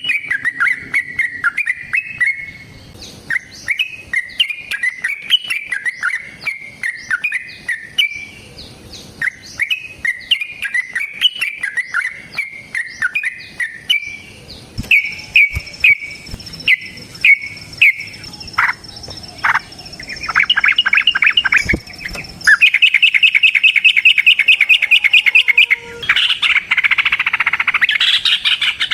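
Yellow-vented bulbul (trucukan) singing: quick chattering notes that, about two-thirds of the way in, build into a long, very fast rolling trill, the fighting 'ropel panjang' song.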